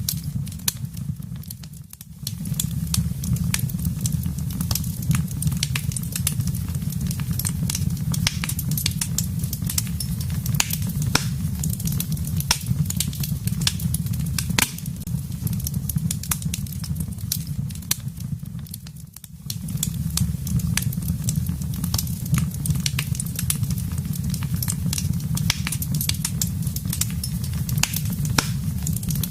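Wood fire crackling, with many sharp pops and snaps over a steady low rumble of flames. The sound dips briefly about two seconds in and again a little before the twenty-second mark.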